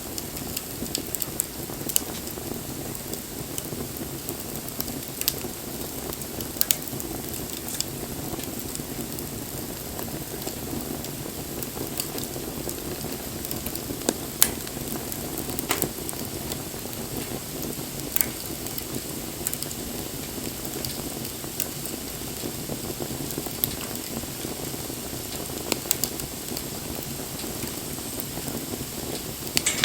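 Campfire burning: a steady low rush of flames with sharp crackles and pops every second or two, the loudest pop about fourteen seconds in.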